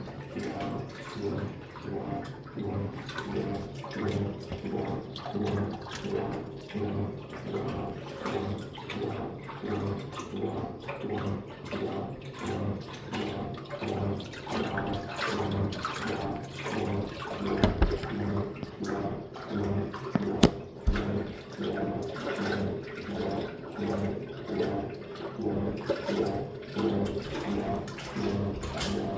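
Living & Co 5.5 kg top-loading washing machine working its load just before the final spin: water swishing in the tub over a low motor hum, with an even rhythmic pulsing. Two sharp knocks come about two thirds of the way in.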